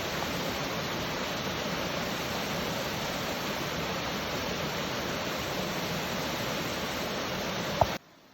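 Waterfall rushing steadily, an even wash of falling water. Near the end a short click, then the sound cuts off abruptly.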